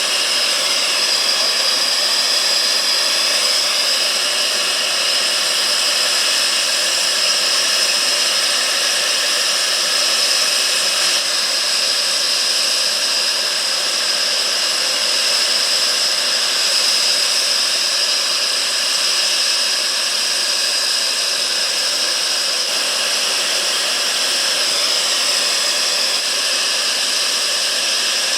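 Jet aircraft engine running steadily: a loud, even whine with a strong high tone that neither rises nor falls.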